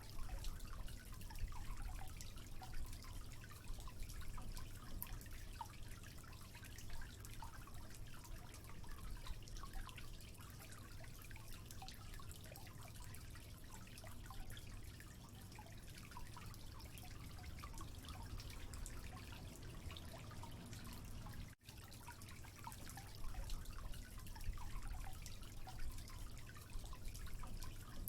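Water trickling and dripping, with many small drops ticking over a steady low rush. The sound cuts out for an instant about three-quarters of the way through.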